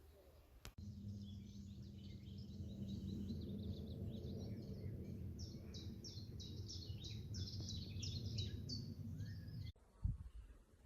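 Small birds chirping and twittering over a steady low rumble. The calls thicken into a quick run of repeated chirps in the second half, then the sound cuts off about a second before the end, leaving a few low thumps.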